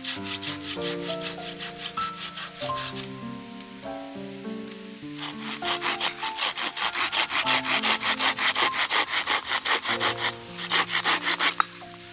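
Hand saw cutting through wood in quick, even back-and-forth strokes, about three to four a second, getting louder about halfway through. Soft background music plays underneath.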